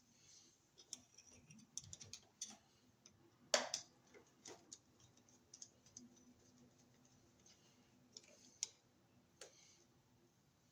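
Faint scattered clicks and ticks of metal on metal as a wire is hooked around a wall receptacle's brass terminal screw and the screw is tightened down, with one louder click about three and a half seconds in.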